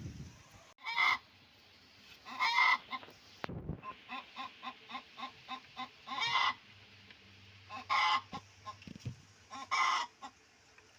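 Chickens clucking at feeding time: a run of short, even clucks about three a second, broken by several louder squawking calls.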